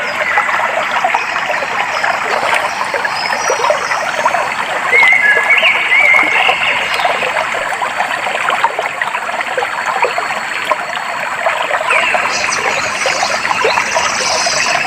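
A clear stream flowing and trickling steadily, with small birds chirping over it in short phrases, several times and most busily near the end.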